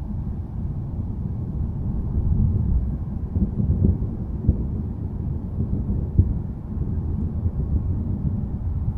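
Low, deep rolling thunder rumble, swelling in the middle with a couple of brief crackles around four and a half and six seconds in.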